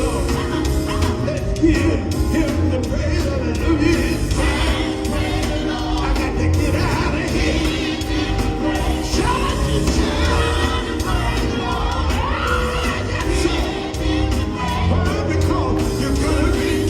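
Live gospel music: a band with a heavy bass playing steadily under a singing voice.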